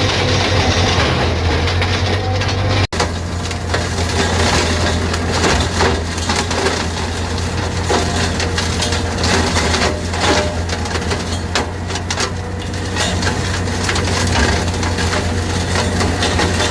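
Branch shredder (wood chipper) running under load: a steady low machine hum with continual crunching and cracking as branches are chipped.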